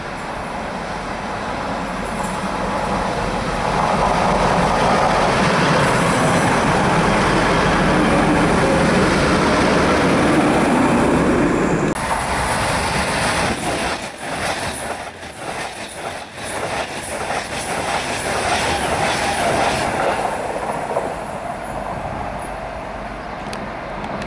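First TransPennine Express Class 185 diesel multiple unit approaching and running past, its diesel engines working, loudest from about four seconds until it cuts off abruptly about halfway. A second express train then comes past at speed, with a quick run of wheel clatter over the rail joints, and fades near the end.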